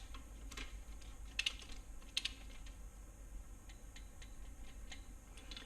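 Light metallic clicks and ticks from hand tools as the side bolts of an LS engine block are tightened with a socket wrench. There are three sharper clicks in the first two and a half seconds, then a few fainter ticks.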